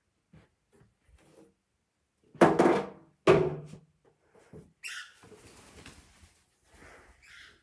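Two loud knocks on something wooden, a little under a second apart, each ringing briefly, followed by faint rustling and a short hiss.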